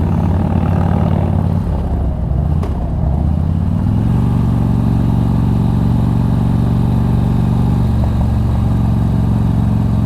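2006 Harley-Davidson Street Glide's 88-cubic-inch fuel-injected V-twin with a loud aftermarket exhaust, running at cruising speed. About two seconds in the engine note drops, then rises back up over the next second or two as the bike pulls again, and holds steady.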